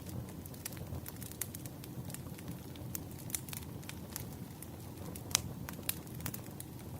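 Wood fire crackling: irregular sharp crackles and snaps of burning logs over a low steady rush of flame, with one louder snap about five seconds in.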